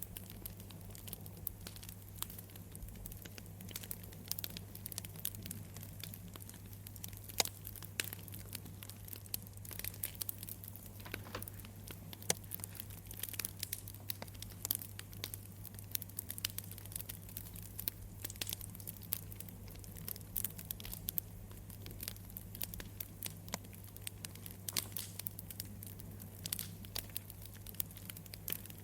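Wood fire crackling, with irregular small pops and snaps over a steady low hum.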